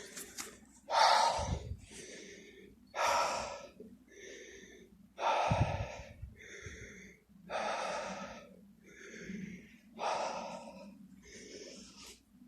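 A man breathing hard from the exertion of running, close to the microphone. A louder breath comes about every two seconds, with a quieter one between each pair, in a steady rhythm.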